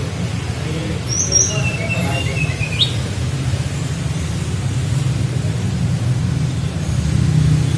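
A small songbird, a tledekan flycatcher, gives a couple of high chirps, then one whistled note that slides gently downward and ends in a quick upward flick. A steady low rumble runs underneath.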